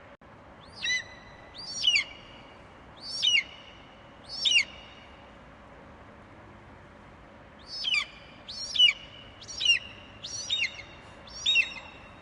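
Eagle calling with short, high, piercing cries over a faint steady hiss. There are four cries about a second apart, a pause of about three seconds, then five more in quicker succession.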